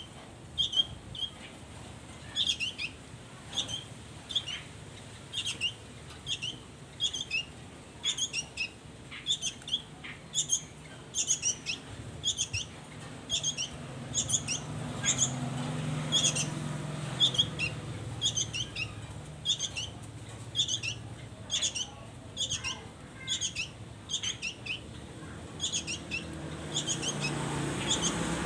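Songbird giving short, sharp, squeaky call notes over and over, about one or two a second. A low rumble swells in the middle and again near the end.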